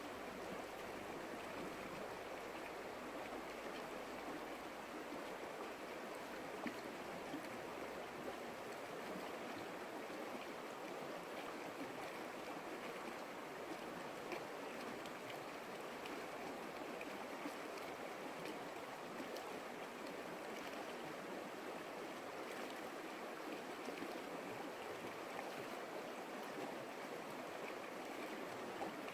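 A creek flowing steadily, an even rushing of water with small splashes scattered through it.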